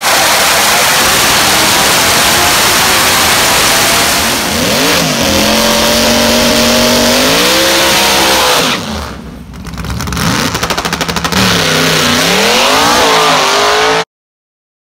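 Drag race car's engine running hard and revving up and down. About nine seconds in the level drops briefly into a rapid pulsing, then it climbs back to full revs before cutting off suddenly near the end.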